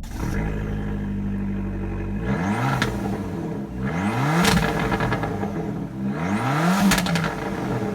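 Abarth 500/595's turbocharged 1.4 four-cylinder engine, breathing through an aftermarket exhaust, idling steadily and then blipped three times, revving up and falling back each time, with a sharp pop near two of the peaks.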